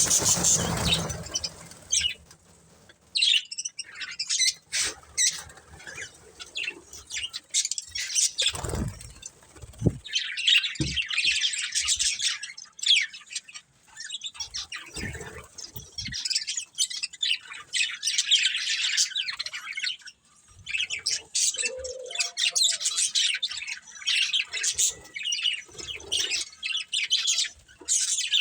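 Budgerigars chirping and warbling in fast, continuous chatter, broken by brief pauses. Twice in the middle a short low thump is heard.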